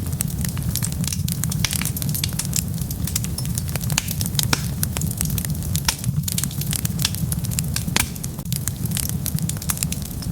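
Wood fire burning with a steady low rumble and dense crackling and popping, many sharp snaps a second.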